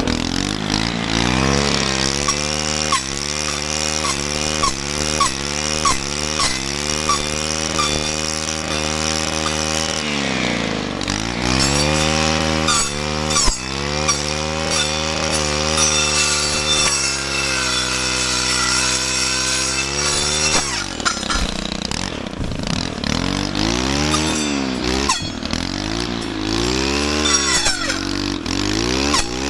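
ATV engine running under way, its revs rising and falling in repeated quick surges, with a steadier stretch about two-thirds through.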